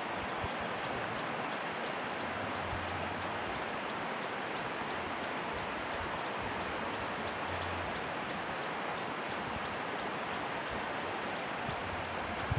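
A steady, even rushing noise with no distinct events, such as wind on the microphone or running water would give.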